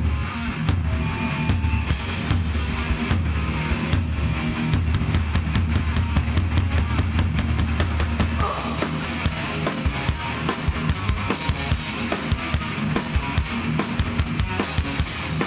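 Live hardcore band playing an instrumental build: drum hits come faster and faster over a low guitar and bass rumble. About halfway through the full band crashes in with cymbals.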